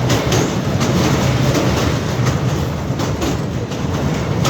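Train running over the Tista railway bridge: a steady heavy rumble with repeated sharp clacks of the wheels passing over rail joints.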